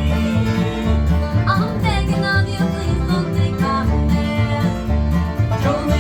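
Bluegrass band playing live: plucked string instruments over a steady, rhythmic bass line.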